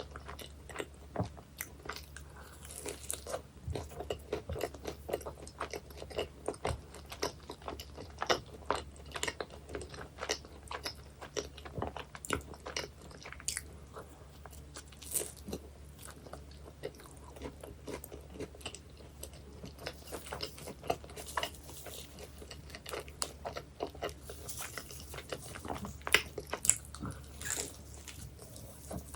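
Close-miked biting and chewing of baked pies, with a dense run of crunching and crackling from the pastry.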